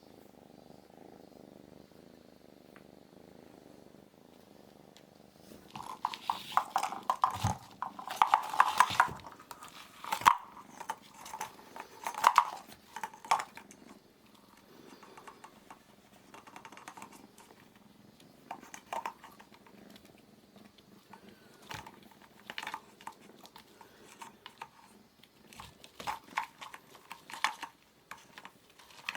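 A kitten purring steadily for the first few seconds. It then gives way to irregular sharp clicks and rattles, loudest for several seconds after that and sparser near the end.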